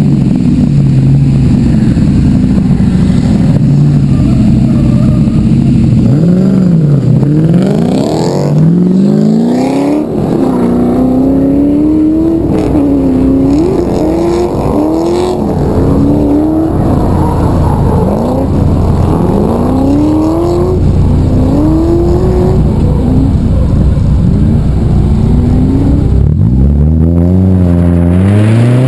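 A 1991 Nissan 240SX's KA24DE four-cylinder engine with 248/248 cams and a 3-inch exhaust on a test pipe, idling steadily, then revved again and again in short rising-and-falling blips. Near the end it revs up once more as the car begins to roll forward.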